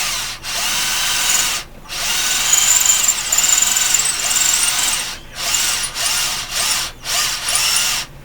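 Cordless drill motor running in repeated trigger pulls, stopping for a moment several times and whining back up to speed after each stop.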